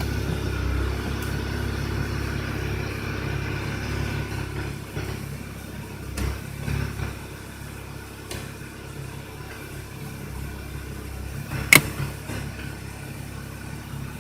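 Audi A3's 1.8 TFSI four-cylinder turbo petrol engine idling steadily, with a sharp click a little before the end and a few faint knocks earlier.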